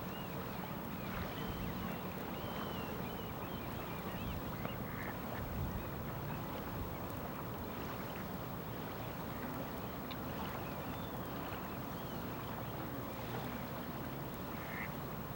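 Faint, short bird calls scattered over a steady low rushing background noise.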